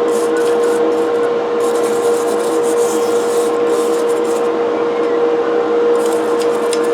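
A powered wire brush running with a steady hum while a cast-iron coffee grinder part is scrubbed against its bristles. The scratchy scrubbing comes and goes in spells of a second or two as the part is pressed to the brush and eased off.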